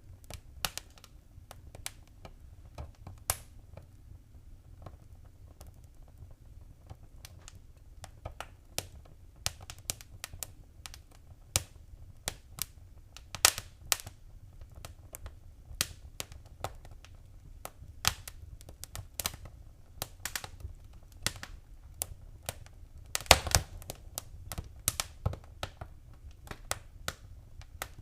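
Wood fire crackling: irregular sharp pops and snaps over a low steady rumble of the flames, with a brief flurry of louder pops near the end.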